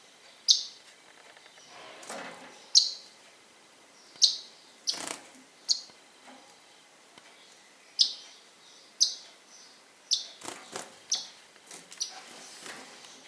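Pet birds chirping: about a dozen short, sharp, high-pitched calls, some spaced a second or more apart and some in quick runs near the end.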